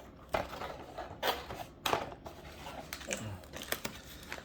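Plastic jerky packets crinkling and rustling as they are handled, in several short bursts.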